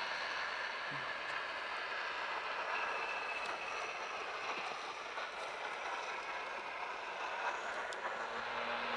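Jet airliner engines making a steady rushing roar, with no rise or fall in pitch.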